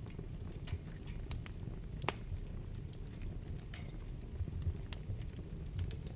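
Wood fire burning in a fireplace: irregular sharp crackles and pops over a low steady rumble of the flames, with the loudest pop about two seconds in and a quick run of pops near the end.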